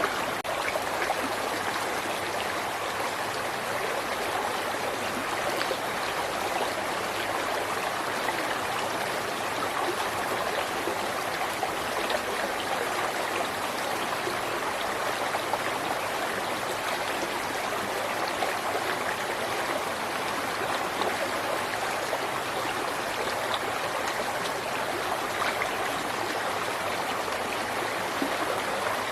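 River water flowing over rocks: a steady babbling rush with small splashes throughout.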